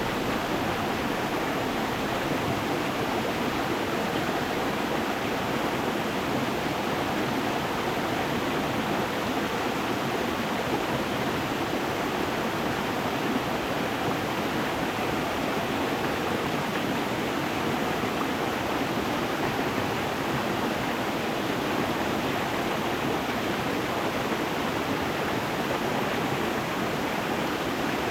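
A stream flowing over stones: a steady, even rush of water.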